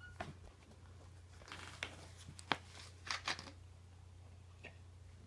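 Faint scattered clicks and rustles, the sharpest about two and a half and three seconds in, over a steady low hum.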